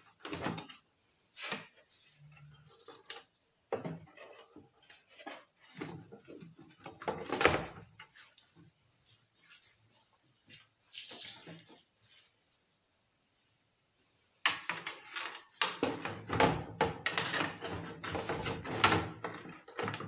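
Scattered knocks, clicks and clatter of parts being handled and seated while working inside an LED TV, with a loud knock about seven seconds in and busier clattering over the last few seconds. A steady high chirping runs in the background.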